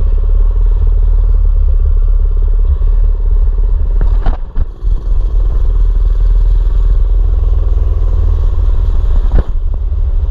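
Mini bike's small engine running steadily under way, with a heavy low rumble. It drops off briefly about four seconds in, and there is a sharp knock near the end.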